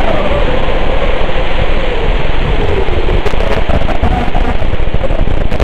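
Heavy wind buffeting on the microphone, with the faint whine of an FPV racing quadcopter's motors gliding down in pitch and back up again.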